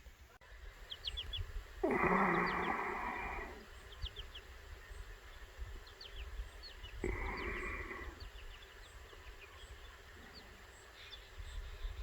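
Faint, rapid chirps of small birds throughout, over a low background rumble. Two louder bursts of rushing noise interrupt it: one about two seconds in lasting almost two seconds, and a shorter one about seven seconds in.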